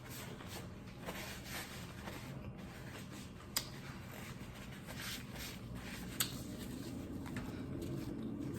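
Close-miked eating sounds: a taco being chewed, with soft wet crackles and two sharp clicks.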